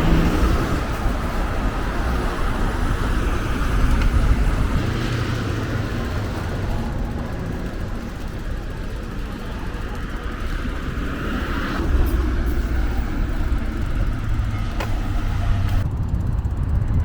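Steady street traffic noise: cars running past, with a low rumble throughout.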